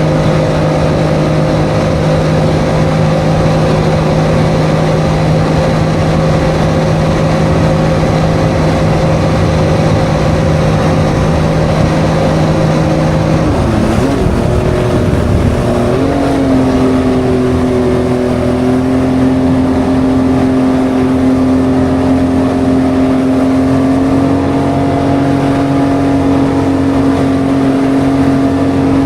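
Yamaha SuperJet stand-up jet ski engine running at a steady cruise. About halfway through the pitch dips and wavers briefly as the throttle changes, then settles at a higher steady pitch and edges up a little more near the end.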